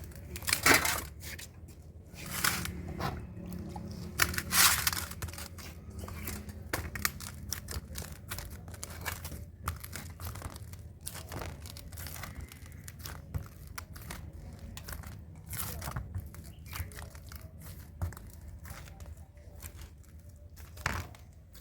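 Food-preparation noises: irregular crackling, rustling and clicking, busiest in the first few seconds, over a low steady hum.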